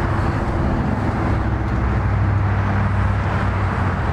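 2007 Harley-Davidson Road Glide's Twin Cam 96 V-twin idling steadily.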